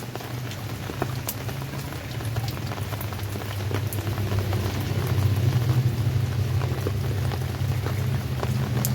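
Steady rain falling, with many individual drops ticking sharply and irregularly over a continuous hiss. A steady low rumble runs underneath.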